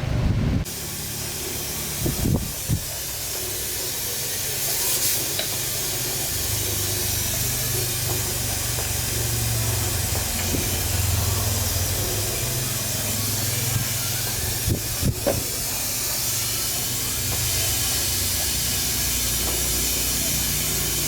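A steady hiss of rushing air over a low hum, with a few short knocks.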